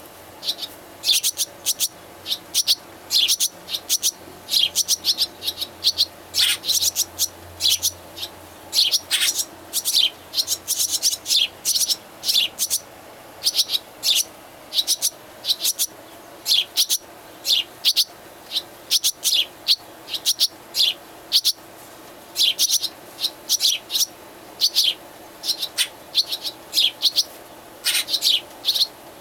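Baby birds chirping: a rapid, continuous stream of short, high-pitched cheeps, several a second, with a few longer calls that slide downward.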